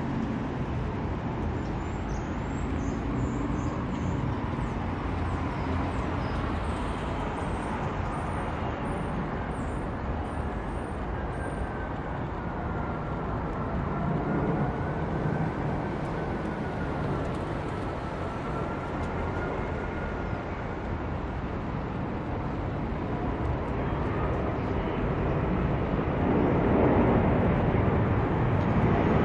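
Jet airliner engine noise: a steady rumble and hiss with a faint whine that wavers in pitch midway, growing louder in the last few seconds.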